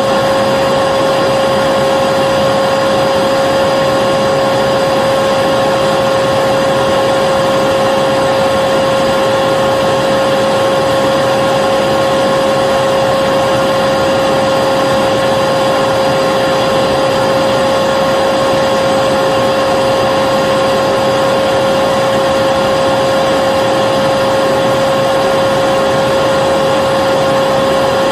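Vacuum cleaner running steadily: a constant motor whine over a rush of air, with a strong hum-like tone that never changes.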